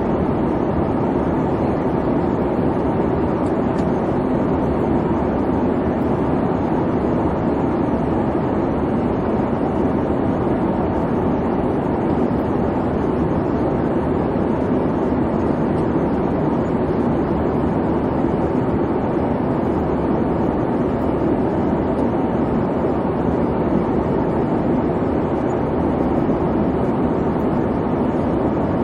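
Airliner cabin noise in flight: a steady, even rumble and hiss of engine and airflow, with no changes.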